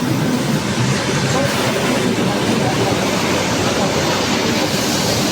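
Train moving through the station alongside the platform: a loud, steady noise of wheels running on the rails.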